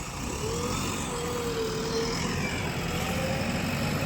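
Diesel engine of heavy earth-moving machinery running steadily, a low rumble with a thin whine that wavers in pitch in the first couple of seconds.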